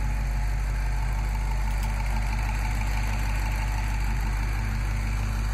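2015 Dodge Challenger SRT Hellcat's supercharged 6.2-litre Hemi V8 idling steadily.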